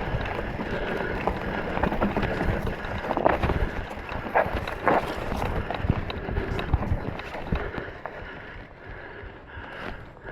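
Mountain bike on a rocky trail with scattered knocks and rattles, and wind on the microphone; it gets quieter about eight seconds in.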